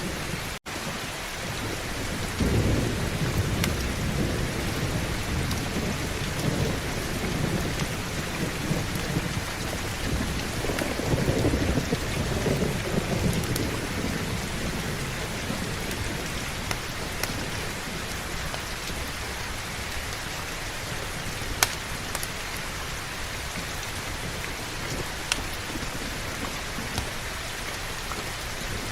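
Steady heavy rain hiss with a long, low roll of thunder that builds a couple of seconds in, peaks around the middle and fades away by about halfway through. The sound cuts out for a split second just after the start, and a few sharp clicks stand out later.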